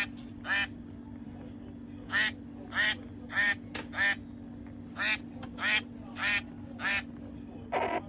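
Toy mallard duck quacking: short, evenly spaced quacks about two every second, in runs of four with brief pauses between. Near the end comes one lower, rougher call. A steady low hum runs underneath throughout.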